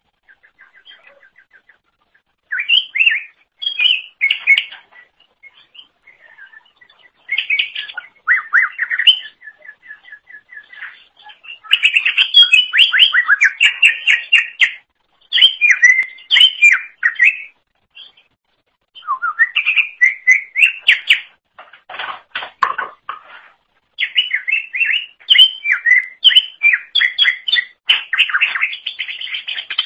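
Cucak ijo (green leafbird) singing a fast, varied song of rapid chirps, sweeping whistles and trills in bursts of a few seconds with short pauses between. A thin, even trill runs near the start and again about eight seconds in.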